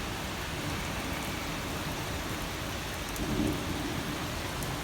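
Heavy rain pouring down in a thunderstorm, with a low rumble of thunder underneath that swells slightly about three seconds in.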